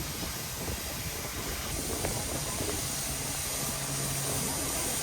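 Steam locomotive hissing steam as it moves, slowly growing louder, with a low steady hum joining about three seconds in.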